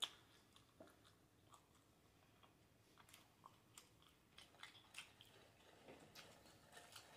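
Faint close-miked chewing and lip-smacking of a mouthful of grilled cheese and fries, heard as scattered soft clicks and smacks. A sharper click comes right at the start, and the smacks grow busier over the last few seconds.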